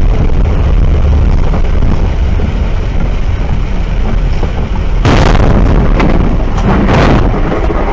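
Loud vehicle noise with a heavy rumble. About five seconds in it jumps to a sudden, louder burst with sharp knocks that lasts about two seconds, typical of a collision.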